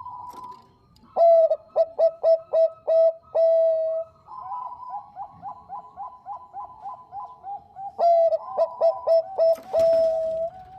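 Perkutut bangkok (zebra dove) cooing: two loud runs of short, quick coos, each ending in a longer held note, with a softer, faster run of coos between them. A short scratchy noise comes near the end.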